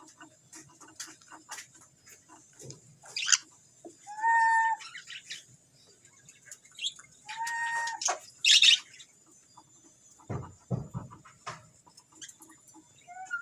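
Small parrots (a lovebird and a budgerigar) chirping and chattering, with two longer held calls and a few harsh screeches. A couple of low thumps come about two-thirds of the way through.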